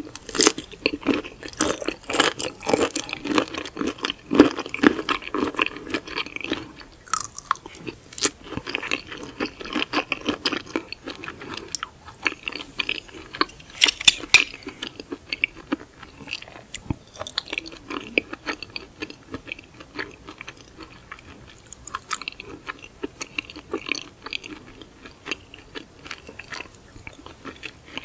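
Close-miked chewing of raw seafood, with wet, crunchy bites and mouth clicks. The chewing is densest in the first several seconds, then goes on more sparsely.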